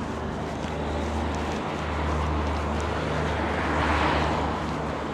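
Outdoor street traffic: a steady low engine hum, with a passing vehicle whose noise swells and fades about four seconds in.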